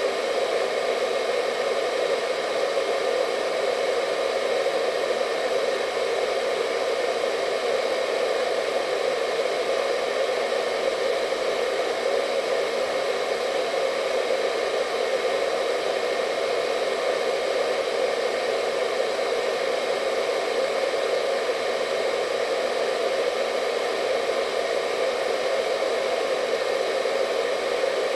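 Hair dryer running steadily: an even, unbroken whooshing hum of rushing air, strongest in the lower middle, with faint steady whining tones above it.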